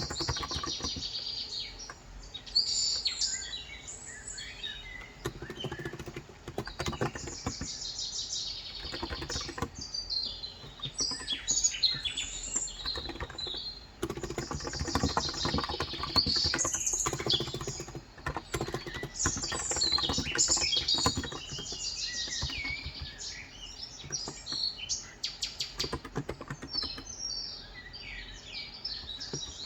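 Birds chirping and singing in many short, overlapping calls, with typing on a Cox Endeavor electro-capacitive (35 g, tenkeyless) keyboard, its keystrokes coming in quick runs of soft clicks.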